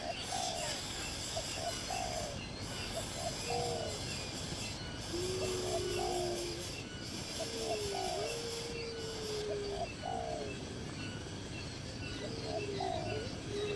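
Birds calling: little clusters of short falling notes, repeated every second or two, with longer, low, drawn-out notes in between, over a steady high hiss.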